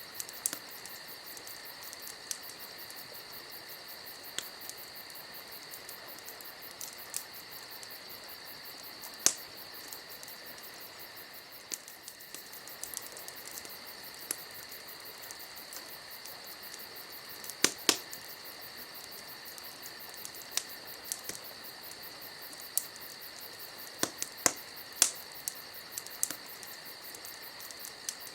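Campfire crackling with scattered sharp pops and snaps, a few much louder than the rest, over a steady high trill of night insects.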